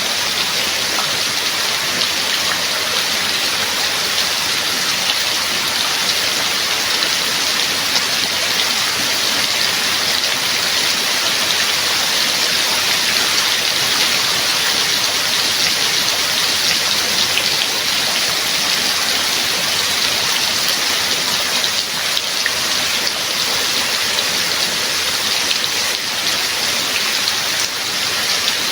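Steady rain falling, a continuous even hiss with many small droplet ticks.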